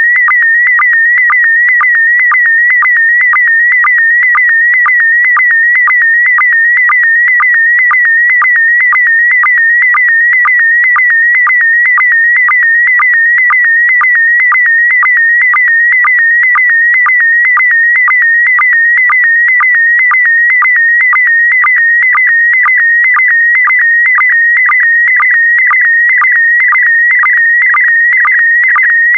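Slow-scan television (SSTV) signal in PD120 mode sending an image as sound: a continuous warbling tone around 2 kHz, broken by a short lower sync pulse about twice a second as each pair of picture lines is sent.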